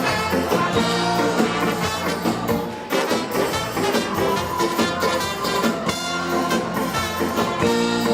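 Live ska band playing an instrumental passage with a brass section and a steady beat.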